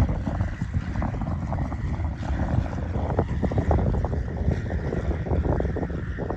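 Wind buffeting the microphone: a heavy, gusty low rumble that covers everything else.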